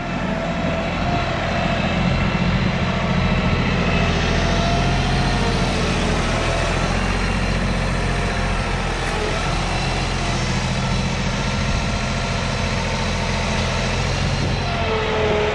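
Two-stroke gasoline chainsaw running at high revs under load as it cuts through a log, steady throughout with slight rises and dips in pitch.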